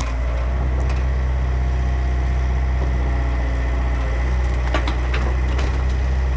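Compact excavator's diesel engine running steadily under work, with a few sharp cracks of branches and twigs snapping partway through.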